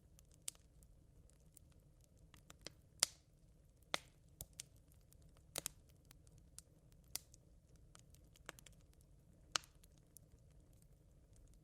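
Smouldering campfire embers crackling: sparse, irregular sharp pops and snaps, the loudest about three seconds in, over a faint steady low background.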